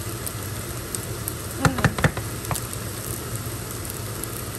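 Fried rice sizzling in a pan over a steady low hum. About two seconds in, a wooden spoon knocks and scrapes against the pan a few times.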